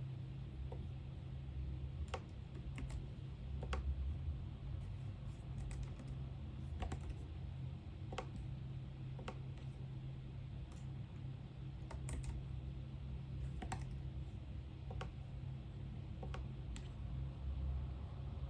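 Unhurried typing on a computer keyboard: scattered key clicks, about one a second at uneven intervals, over a steady low hum.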